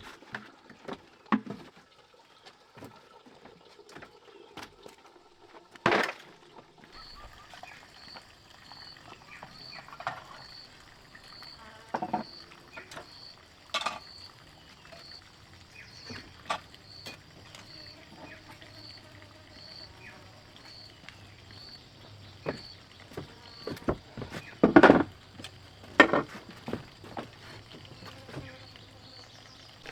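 An insect chirring in a steady high pulsing rhythm, about two pulses a second, beginning about seven seconds in. Scattered knocks and clicks from handling things sound over it, the loudest ones late on.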